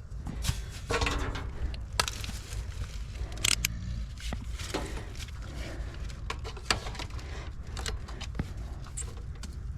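Scattered metallic clicks and short scrapes of hands and tools working on a Square D QO circuit breaker and the panel around it, over a steady low rumble.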